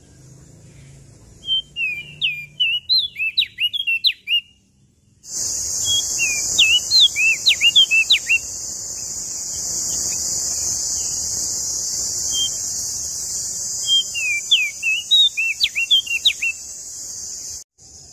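Prenjak daun (leaf warbler) singing three quick bursts of high, rapidly rising-and-falling whistled notes. A steady high hiss comes in suddenly about five seconds in and cuts off just before the end.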